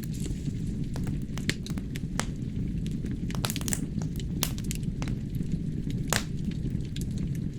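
Wood fire burning in a fireplace: a steady low rumble of the flames with irregular sharp crackles and pops from the burning logs, one louder pop about six seconds in.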